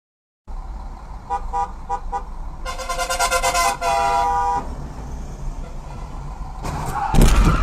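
Car horn honking: four quick short toots, then a long blast of about two seconds, over road noise. Near the end comes a loud, sudden impact, like a collision.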